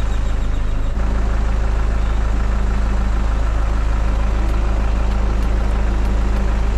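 Safari tour truck's engine running steadily with a deep, even hum.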